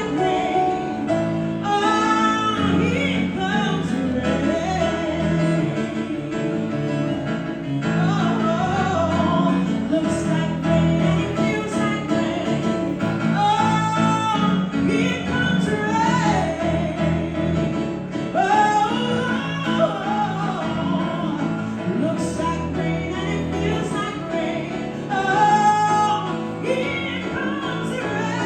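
Live band music with wordless sung vocal runs and ad-libs gliding over the accompaniment.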